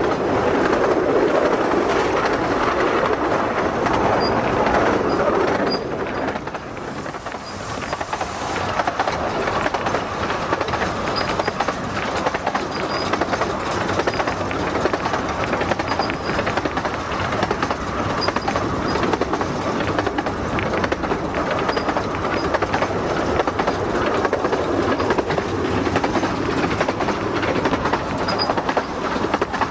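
Miniature 15-inch gauge passenger train in motion, heard from an open window of one of its coaches: a steady rumble and clatter of wheels on the track. It dips in level for a couple of seconds about six seconds in, then continues steadily.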